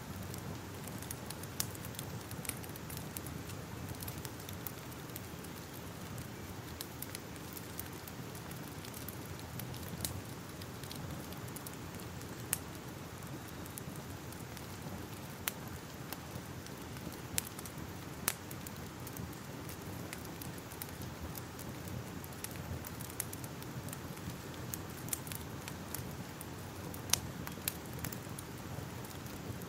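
Crackling fire: a steady low rumble of burning with irregular sharp crackles and pops, a few of them louder.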